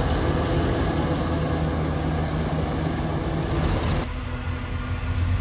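Heavy diesel engine of earthmoving machinery running steadily, with mechanical noise over its low drone. About four seconds in, the higher noise cuts off suddenly, leaving the lower engine sound.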